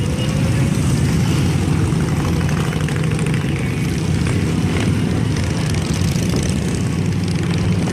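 Many Harley-Davidson motorcycle engines running together as a parade goes by, a loud, steady low engine noise with no break.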